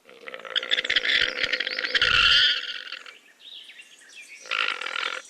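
Llama vocalizing in two stretches: a longer, noisy one over the first three seconds and a shorter one near the end.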